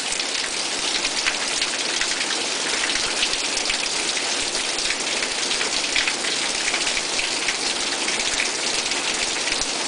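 Hard rain falling steadily, a dense, even patter of drops.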